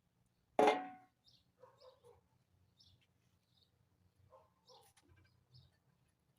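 A single sharp metallic clank that rings briefly, about half a second in, followed by faint scattered short sounds.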